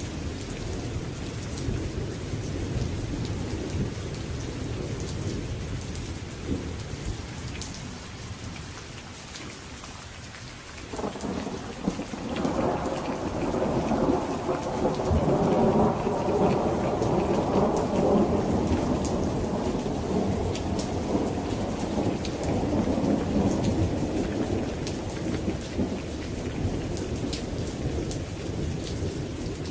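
Steady rain falling, with a thunder rumble dying away at first. About eleven seconds in, a new thunderclap breaks and rolls loudly for about ten seconds before easing off under the rain.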